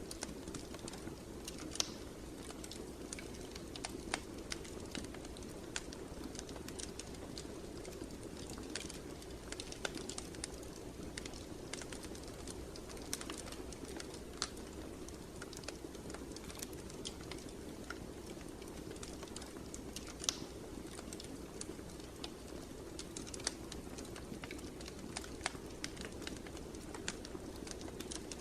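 Wood fire crackling in a fireplace: irregular sharp pops and snaps over a steady low rushing hum.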